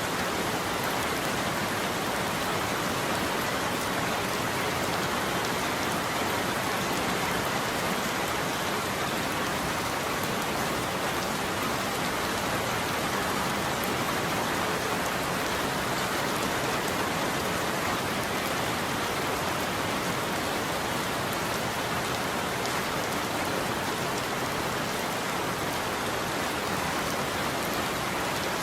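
Steady heavy rain falling and pattering on a surface, an even hiss of drops with no thunder.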